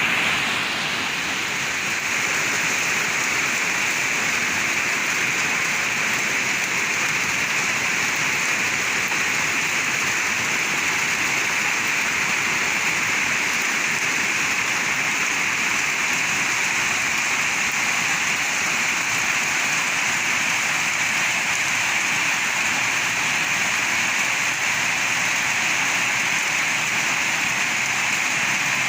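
Rain falling steadily, a dense even hiss of a downpour.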